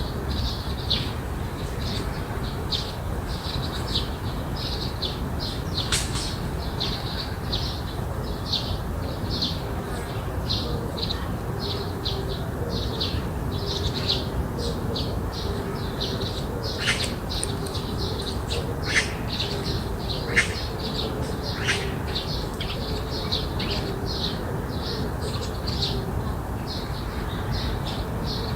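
Birds chirping in a quick, steady run of short calls, with a few sharp descending calls in the second half, over a low steady background rumble.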